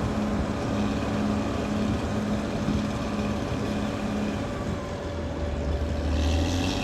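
Caterpillar D6R XL bulldozer's diesel engine running under load with a steady, pulsing drone. About five seconds in a deeper note joins for a second or so, and a brief hiss rises near the end.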